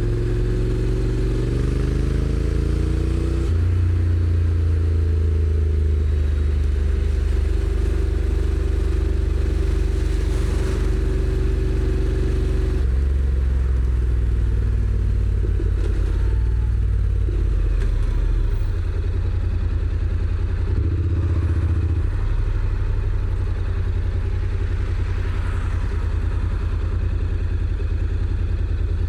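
Honda NC750X parallel-twin motorcycle engine under way. Its pitch rises for the first few seconds and drops sharply about three and a half seconds in, as a gearbox upshift does, then holds a steady cruise before varying with the traffic later on.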